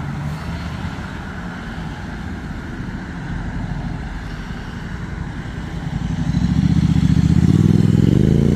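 A modified car's engine running with a low rumble, then revving up loudly about six seconds in and held at high revs.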